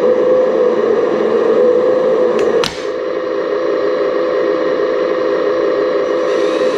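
Steady electric whine of a radio-controlled model excavator's motor running, with a sharp click about two and a half seconds in, after which the whine dips briefly and picks up again.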